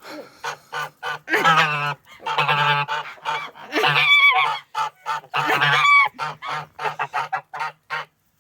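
Domestic geese honking: a rapid run of short honks, about four or five a second, broken by several longer, louder calls.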